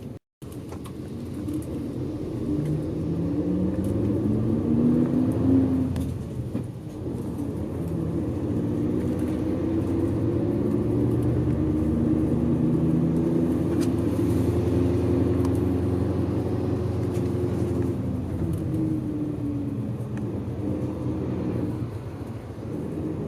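Bus engine heard from inside the cabin while under way: the engine note climbs for a few seconds, drops at a gear change about six seconds in, then rises slowly again and eases off near the end.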